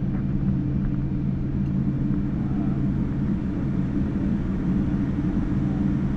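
Steady low cabin rumble and hum of a Boeing 787-9 with its engines running on the ground, shortly before the takeoff roll.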